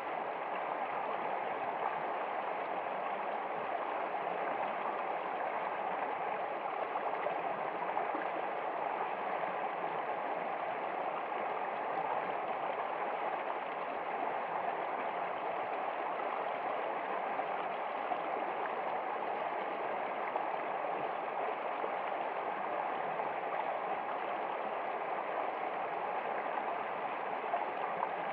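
Water running steadily, as in a flowing stream: an even, unbroken wash of sound.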